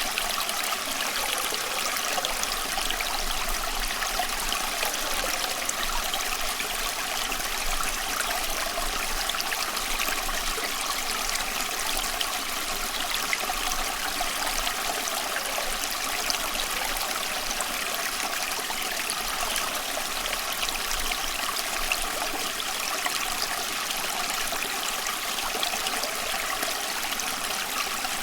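Small stream flowing, a steady trickling and babbling of water over stones.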